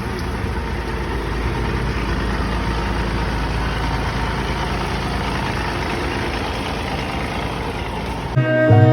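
Garbage truck engine running steadily at idle, a low rumble with a noisy wash above it. Music comes in near the end.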